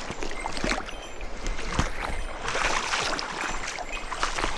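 Mountain stream water rushing and splashing, with irregular short splashes throughout.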